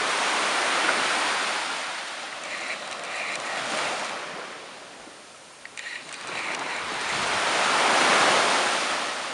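Ocean surf washing onto a beach, loud at first, easing off, then swelling again as another wave breaks loudest about eight seconds in.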